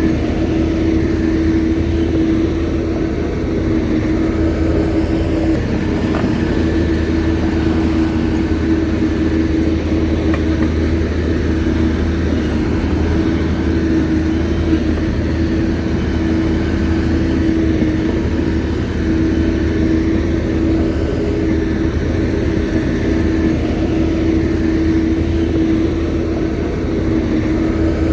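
Shantui bulldozer's diesel engine running steadily, a constant low drone with a steady mid-pitched tone over it.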